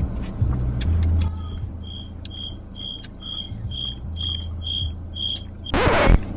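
A car's warning chime beeps steadily, a high short beep about two and a half times a second, over the low rumble of the car. Near the end, a loud brief rushing noise.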